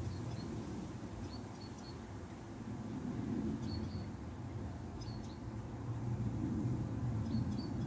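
A small bird chirping in short, high bursts of two or three notes, about once a second, over a low, uneven rumble that swells and fades.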